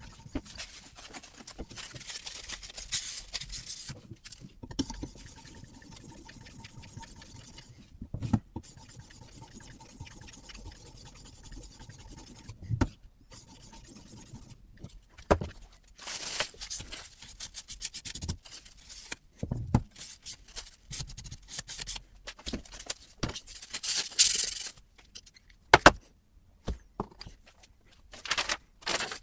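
Sharpening stone of a guided knife-sharpening system stroked along a carbon-steel knife edge: repeated scratchy, hissing rubs of uneven length, with a few light knocks between strokes.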